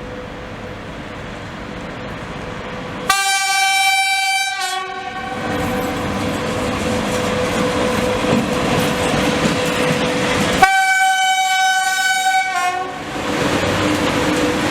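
VL80S electric locomotive sounding its horn in two long blasts, about three seconds in and again about ten seconds in, each sagging slightly in pitch as it cuts off. Under the blasts the freight train's running noise grows louder as it approaches.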